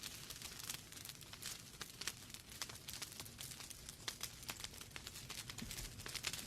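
Wood fire burning in a fireplace: irregular sharp crackles and pops from the logs over a soft steady hiss and low rumble of the flames.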